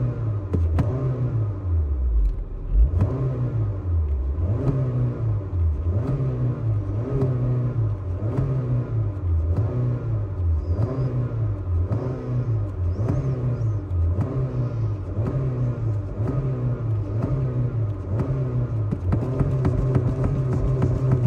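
Honda car engine revved over and over by pumping the gas pedal, its note rising and falling about once every second and a half, heard from inside the cabin.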